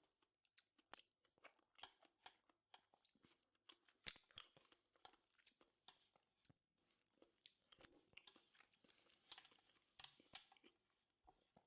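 Faint close-up chewing of food, an irregular run of small crunchy, wet mouth clicks, mukbang style.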